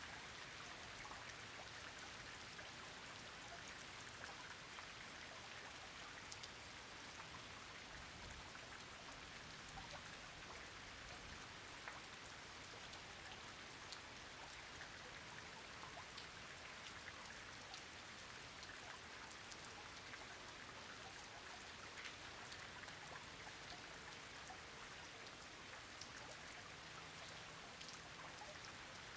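Steady rain falling: a constant hiss dotted with many small, sharp drop impacts.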